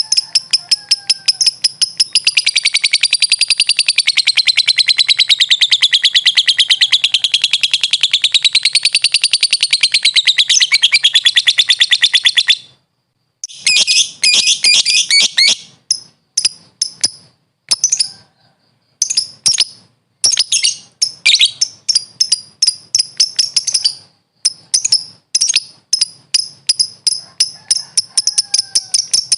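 Lovebird (Agapornis) singing: a long, unbroken, rapid chattering trill of about twelve seconds that rises and falls in pitch, the drawn-out 'ngekek' that lovebird keepers prize. After a short pause it goes on in shorter bursts of chirps and clicks broken by gaps.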